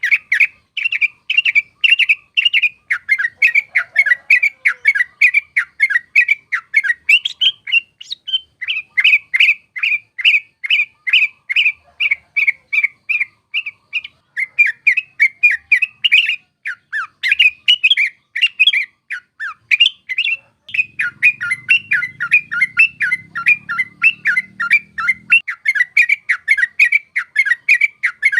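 Sooty-headed bulbul (trucuk) singing a long, rolling run of short, sharp chirping notes, several a second, broken only by brief pauses a quarter and half way through.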